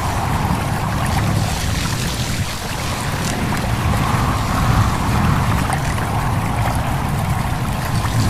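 Stream babbling steadily, with wind and rustling leaves, and scattered faint ticks of water over it.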